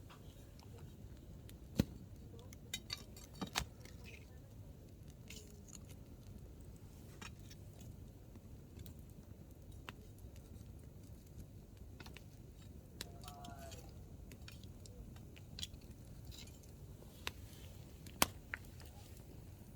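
Hardwood campfire burning, the wood snapping and popping in scattered sharp cracks over a low steady rush, the loudest pops about two seconds in and near the end.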